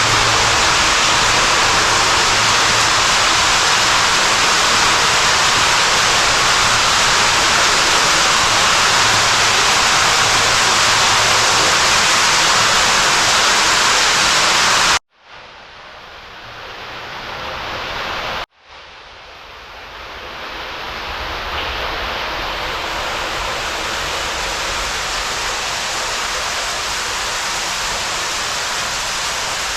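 Loud, steady rush of water flowing through a storm drain. About halfway it cuts off abruptly twice in a few seconds, then comes back steady but somewhat quieter.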